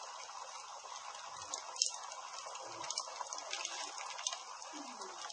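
Campfire burning: a steady hiss with scattered sharp crackles and pops, the loudest about two seconds in.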